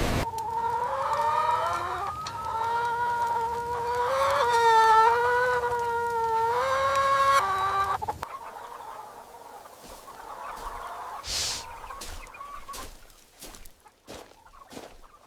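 Roosters crowing: long, drawn-out pitched calls that overlap for about eight seconds. After that comes a quieter stretch with scattered knocks.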